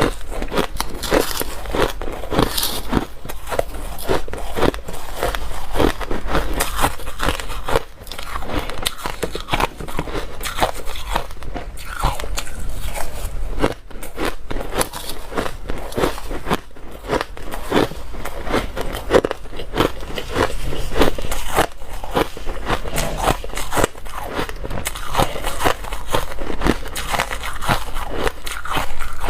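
Close-miked ice eating: dry, hard ice being bitten and chewed, a dense, continuous run of crunching and crackling with only a couple of brief pauses.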